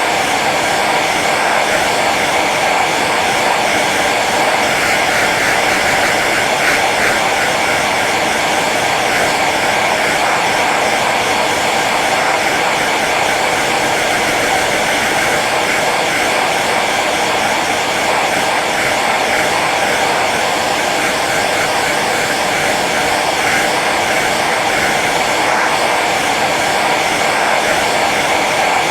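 Hair dryer running steadily on its low setting: a constant rush of blown air over the motor's whine.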